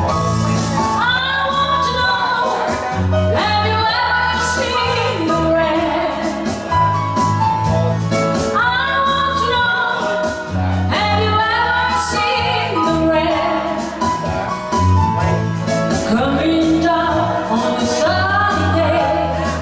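A woman sings an English-language pop cover over an accompaniment with bass and a steady beat, in sung phrases every few seconds.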